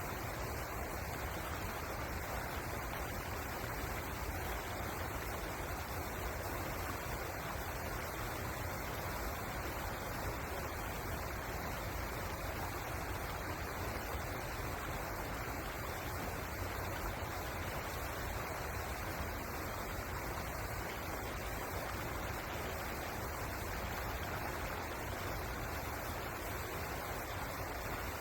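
Pozer River water rushing steadily, a constant even roar with a deep rumble underneath.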